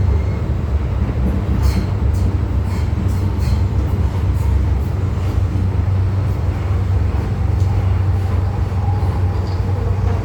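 MTR M-Train electric multiple unit running steadily between stations: a continuous low rumble from wheels and running gear, with faint irregular clicks from the track.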